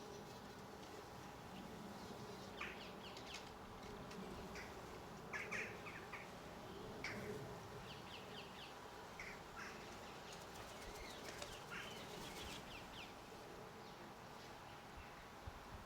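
Small garden birds chirping in short, scattered calls, busiest in the middle stretch, over a steady low hum.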